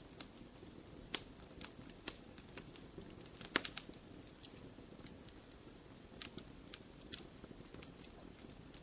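Wood fire burning in a fireplace, crackling with irregular sharp pops and snaps, a cluster of louder pops about three and a half seconds in, over a low steady rush of flames.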